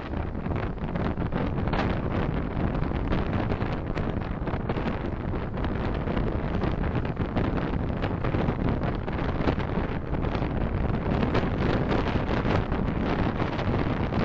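Steady road and wind noise from a car driving, an even rumble without sharp events.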